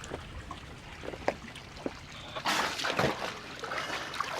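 Water sloshing and trickling, with scattered small clicks and a louder splash about halfway through.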